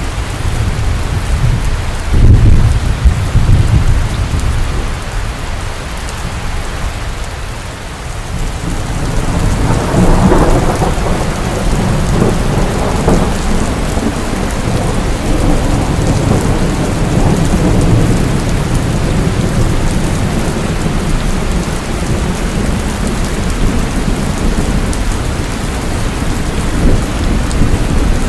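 Steady rain falling in a thunderstorm at night. Thunder rumbles low about two seconds in, and a longer rolling peal builds from about nine seconds in and slowly fades.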